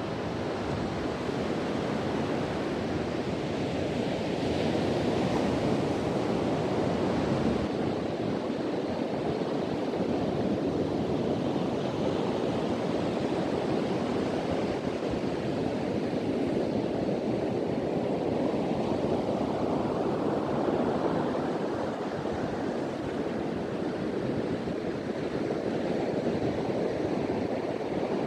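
Ocean surf breaking on a beach, a steady wash of waves with slow swells, the louder ones a few seconds in and again past the middle. Wind blows over the microphone.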